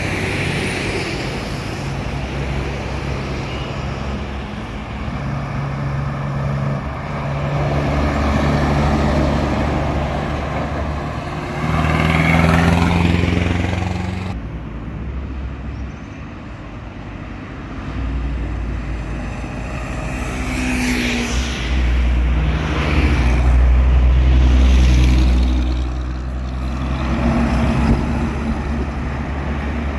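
Truck engines and road traffic running steadily, with several vehicles passing that swell loud and fade away. The sound changes abruptly about halfway through.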